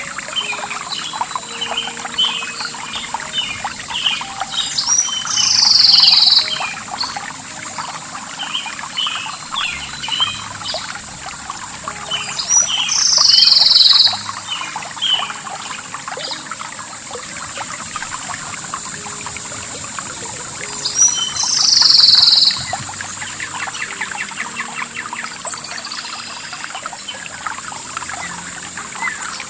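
Many small birds chirp over running water. One louder call comes four times, about every eight seconds, each lasting a second or so. A steady high-pitched tone runs underneath.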